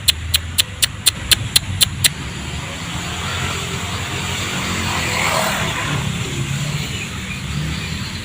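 A quick run of sharp clicks, about four a second, stops about two seconds in. Then a passing vehicle's noise swells to a peak about five seconds in and fades.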